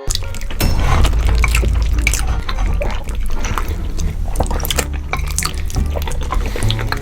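Close-miked wet eating sounds of a mukbang: many quick mouth smacks, clicks and slurps, with a low bass line underneath.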